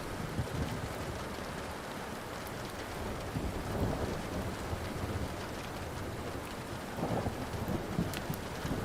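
Steady rain with thunder rumbling low underneath, swelling a little a few times. A few sharp crackles from a burning wood fire come through, one about two and a half seconds in and two near the end.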